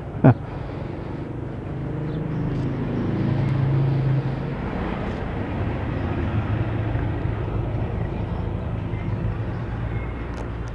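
Motor vehicle engine running, swelling to a peak about four seconds in and then holding steady. A brief loud thump comes about a third of a second in.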